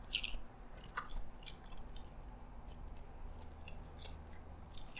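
Close-up chewing of a mouthful of yee sang salad, with irregular small crunches and wet mouth clicks.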